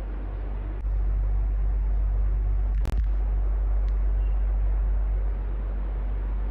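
Electric fan running steadily: a low hum under an even airy whoosh. It gets louder about a second in, with a brief click near the middle, and eases back down about five seconds in.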